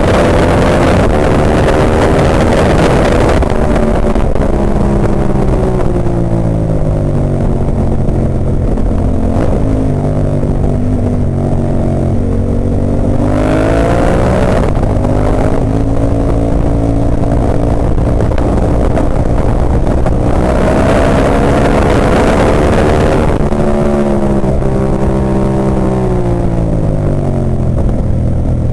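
Ducati 998's L-twin engine heard onboard at racing speed: it winds down under braking, then revs up hard out of corners several times, with a stepped drop in pitch as it is shifted down about three-quarters of the way through. A rushing hiss swells over the engine on the fastest stretches.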